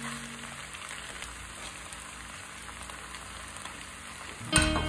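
Stir-fry of noodles and vegetables sizzling in a nonstick wok: a steady, fairly quiet hiss with faint crackles.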